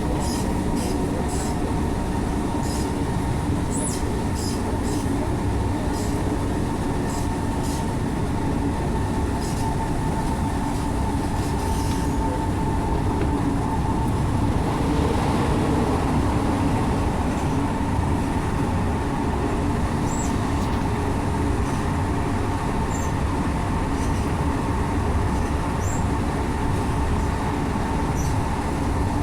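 Interior of an Alstom NS-16 metro train running between stations: a steady low rumble with a steady high tone over it and scattered faint clicks, swelling slightly about halfway through.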